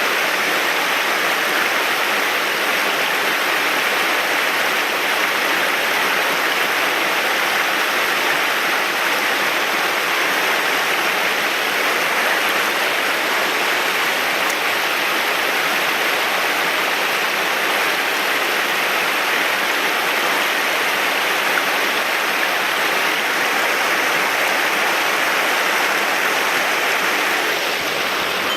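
Mountain stream's flowing water rushing loud and steady.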